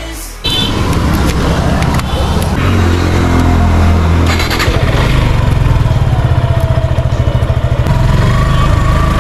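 Suzuki Gixxer SF's single-cylinder engine running, revving up about three seconds in and then running on with an even throb.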